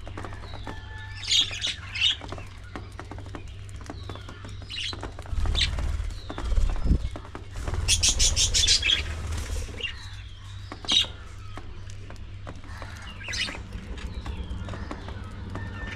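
Budgerigars chirping and squawking, short high chirps throughout with a quick run of chattering notes about eight seconds in. A low rumble joins in around the middle.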